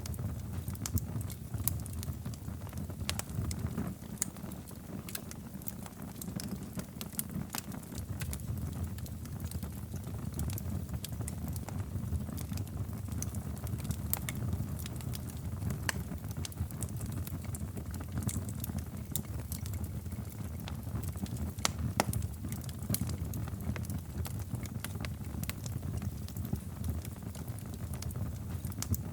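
Wood fire burning in a fireplace: a steady low rumble of flames with irregular crackles and pops, one sharper pop about three quarters of the way through.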